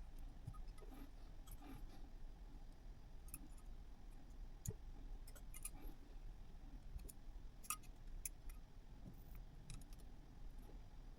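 Faint, irregular light clicks and small rattles over a low steady hum.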